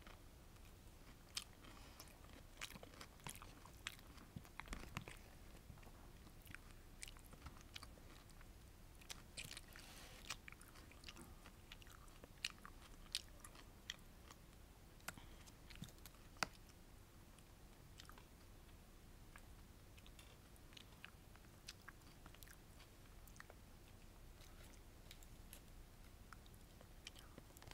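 Quiet, close-miked chewing and mouth sounds of a person eating sweet and sour fish with rice. There are many sharp clicks, thickest through the first half and thinning out later.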